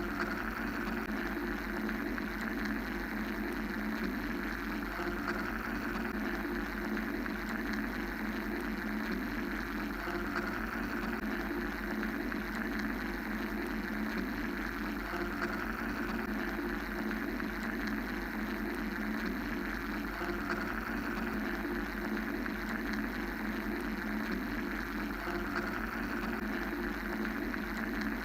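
Steady mechanical white-noise drone, a continuous hum and hiss with a low rumble, whose upper hiss slowly swells and fades.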